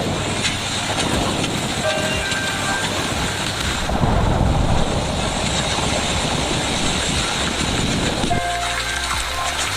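Steady, dense noise of a heavy rainstorm with wind.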